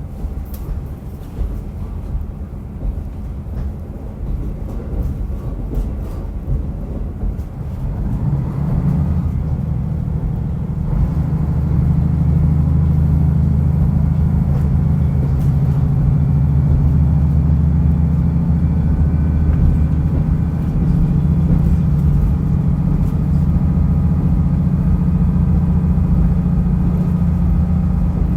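Diesel railcar running along the line: quieter at first with scattered clicks, then the engine comes under power about eight seconds in and settles into a louder, steady low drone.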